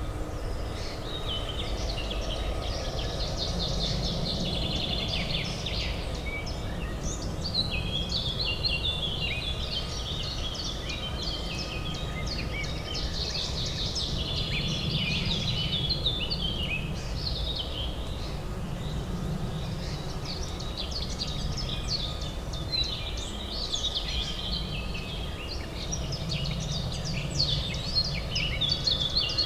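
Several songbirds chirping and singing over a steady low urban hum, like distant city traffic.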